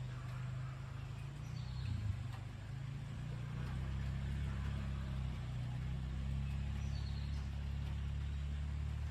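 Deep rolling thunder rumbling low and long, swelling about a third of the way in and holding. Two faint bird chirps come through above it.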